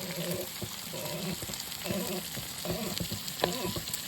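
Food sizzling as it fries in a pan, stirred with a utensil that clicks and scrapes against it now and then.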